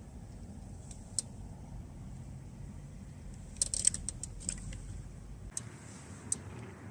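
Wind buffeting the microphone as a steady low rumble that eases about five and a half seconds in, with a few small clicks and light rattles, a cluster of them near the middle.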